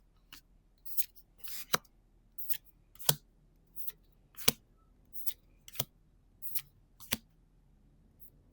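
Paper trading cards being flipped through one at a time, each giving a short crisp snap, some with a brief slide before it, about a dozen at a steady pace of roughly one every two-thirds of a second.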